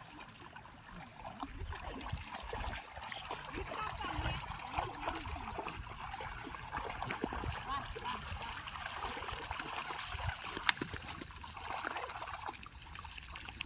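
Flowing water trickling and splashing steadily, with a single sharp click about three quarters of the way through.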